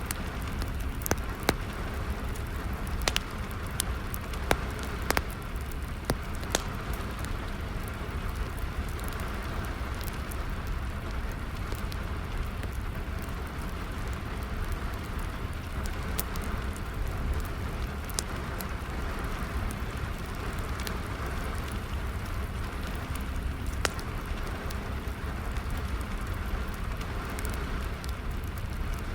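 Steady rain with a wood fire crackling, its sharp pops and snaps coming several in quick succession in the first few seconds and scattered more sparsely after.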